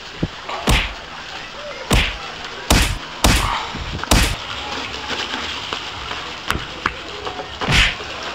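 A series of sharp bangs, about six loud ones and a fainter one, at irregular intervals over a steady hiss.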